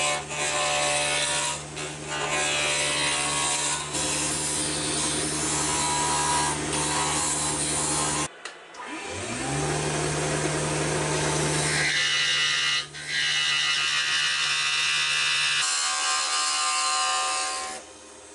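An electric woodworking machine cutting red Coolabah, its motor humming under a rasping cut. About eight seconds in the motor cuts out, then spins back up with a rising pitch and cuts again, and near the end the cutting noise drops away to a quieter hum.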